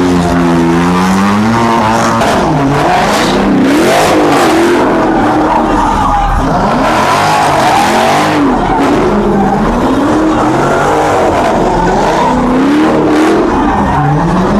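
Car engine revving up and down over and over while the car slides, with tyres screeching in long spells through it.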